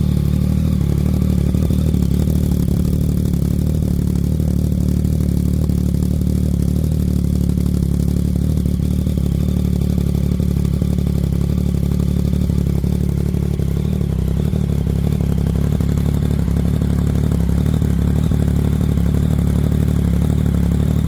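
Yamaha XSR900's inline-three engine idling steadily through a full aftermarket exhaust with the dB killer removed, shortly after a cold start.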